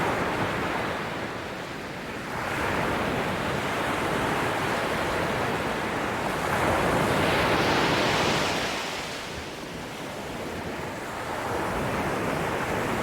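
Sea surf: waves breaking and washing in, a steady rush that swells and eases in slow surges. One surge builds about two seconds in, the loudest comes just past the middle, and another rises near the end.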